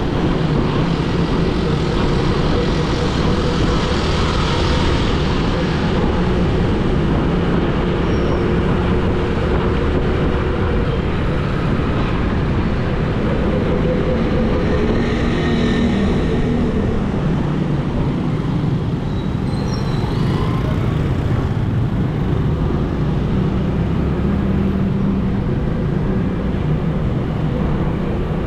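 Steady rumble of road traffic, vehicle engines running, with a wash of noise over it.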